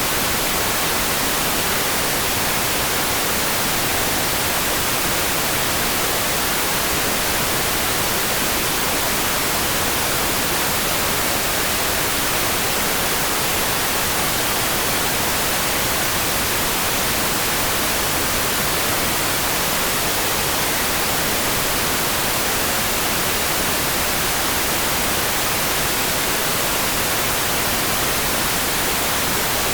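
Steady rain sound for sleep: an even, unbroken hiss, strongest in the high end, with no separate drops, thunder or other events standing out.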